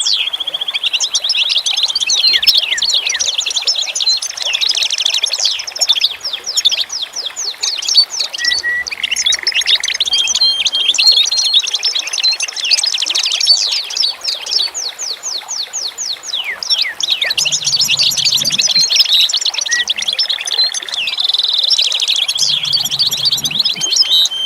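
Many birds chirping and twittering at once, a dense, continuous chorus of quick, high chirps and short trills.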